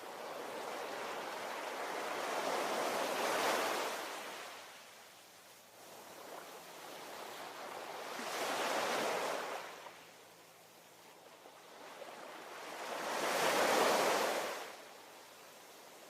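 Ocean waves breaking and washing in, three surges that each swell up and fade away, the last the loudest.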